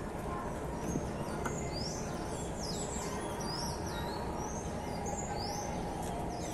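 Small birds chirping: many short, high chirps, some sliding up and some down, over a steady low background rumble.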